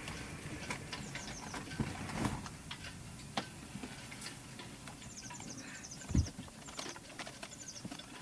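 Scattered light clicks and knocks, with one heavier thump about six seconds in, and a few quick runs of short, high chirps.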